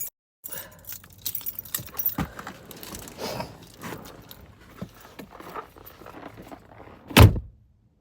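Keys jangling and rustling with scattered clicks as things are handled, then one loud heavy thud about seven seconds in.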